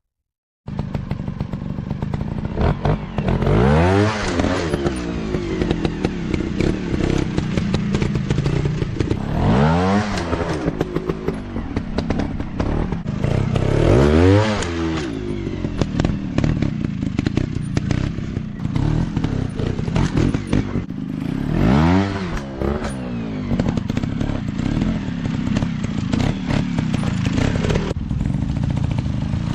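Off-road dirt bike engines running, the revs rising and falling in swells about every five seconds, with some clatter.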